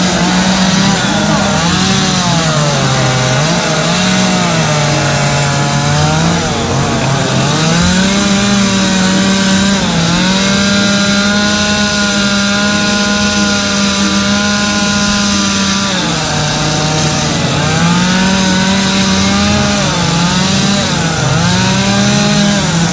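Chainsaw running at high revs while carving wood. Its engine pitch keeps dipping and climbing back, holds steady for a few seconds midway, then dips and recovers again several times near the end.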